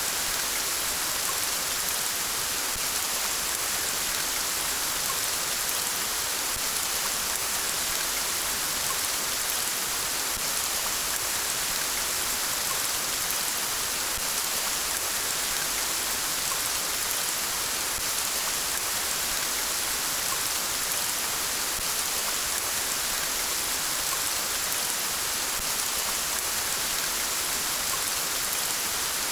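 Steady rain falling, an even, unbroken hiss with no separate drops or thunderclaps standing out.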